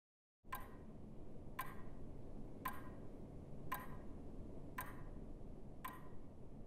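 Clock ticking evenly about once a second over a quiet low room hum.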